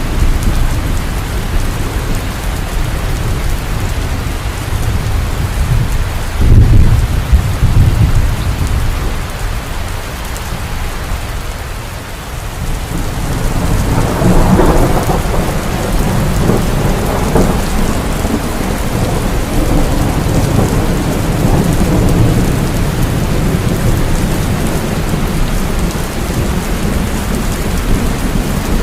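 Heavy rain falling steadily, with thunder: a sharp low clap about six seconds in, and a long rolling rumble that builds from about halfway through and slowly fades.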